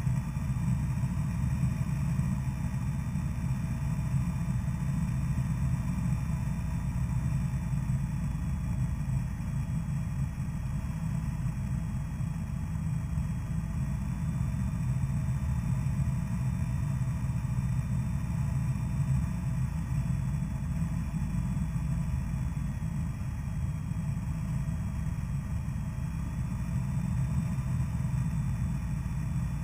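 Steady drone of a Cessna's single piston engine and propeller on final approach to landing.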